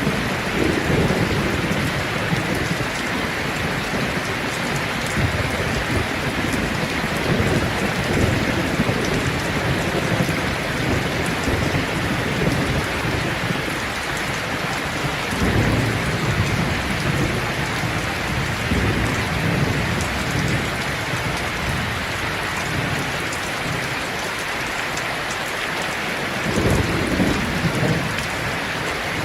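Steady heavy rain falling, with low rumbles of thunder swelling up a few times: near the start, about halfway through and near the end.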